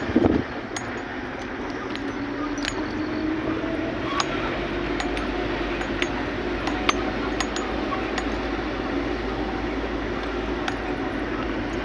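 A vehicle running with a steady low rumble and a faint wavering tone, over which about a dozen light clicks and clinks rattle at irregular moments.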